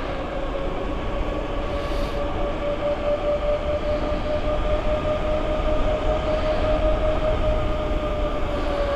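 Steady whine from the bike in motion, held near one pitch and drifting slightly up and then down, over a continuous rumble of wind and road noise.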